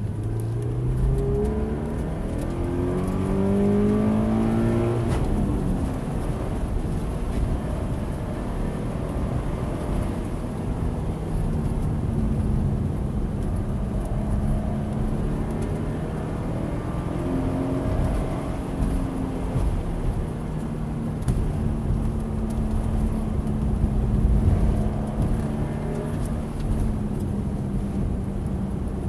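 Scion FR-S's 2.0-litre flat-four engine under hard driving on a wet track: it revs up and drops back several times in the first few seconds and again about two-thirds through, and otherwise holds a fairly steady pitch, over constant road and tyre noise.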